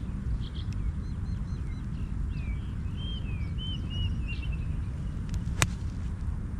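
Small birds chirping in short, quick phrases, then a single sharp click about five and a half seconds in: a golf club striking the ball on a full shot. A steady low rumble runs underneath.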